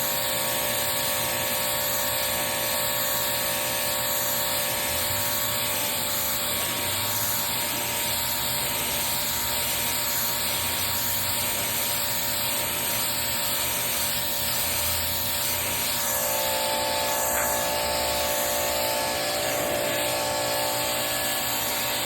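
Pressure washer spraying a driveway: a steady hiss of the water jet over the even whine of the washer's pump motor, which shifts in pitch a little about two-thirds of the way through.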